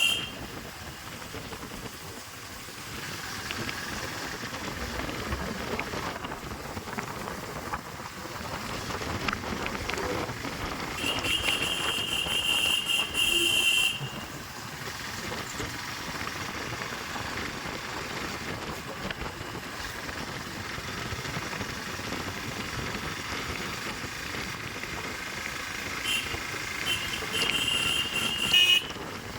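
Steady wind and road noise from riding a motorcycle, rushing over the microphone. Twice a shrill, high, wavering tone comes in over it for a few seconds and stops suddenly.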